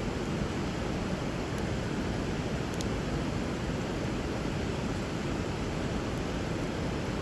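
Steady rush of flowing river water, with a few faint crackles from a burning wood fire, one of them about three seconds in.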